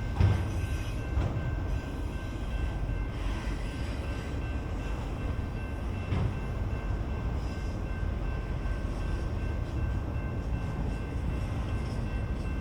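BNSF freight train rolling past: a steady low rumble of the cars on the rails, with a sharp clank near the start and another about six seconds in.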